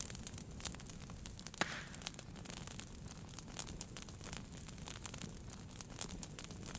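Wood fire in a fireplace crackling: many small snaps and pops over a low steady rumble, with one louder pop about a second and a half in, followed by a brief hiss.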